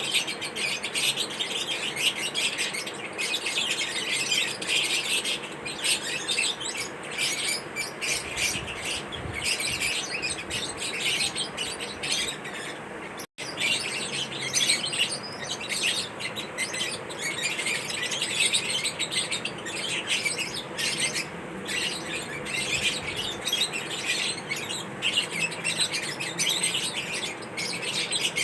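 Lovebirds chirping: a dense, unbroken chatter of rapid, high, overlapping chirps, with the sound cutting out for an instant about halfway through.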